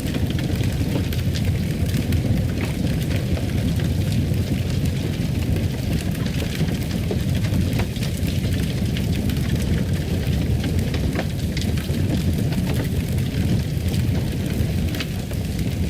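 Fireplace fire burning: a steady low rumble of flames with many small crackles and pops scattered throughout.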